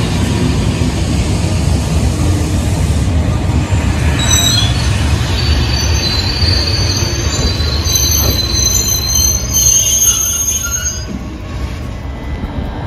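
SNCF Corail coaches rolling slowly past along the platform as the train pulls into the station: a steady low rumble of wheels on rail, joined from about four seconds in by high-pitched metallic squealing in several tones at once as it brakes. The squealing stops about eleven seconds in and the sound grows quieter.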